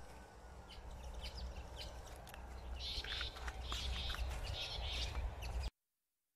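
Birds chirping: many short, high calls, busiest in the middle, over a faint low rumble. The sound cuts off suddenly shortly before the end.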